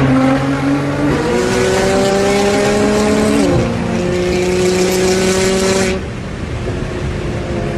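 Car engine accelerating hard, heard from inside the following car's cabin. Its note climbs with sharp steps in pitch at gear changes, about a second in and again about three and a half seconds in. A hissing rush over it cuts off about six seconds in, and the engine goes quieter as the throttle eases.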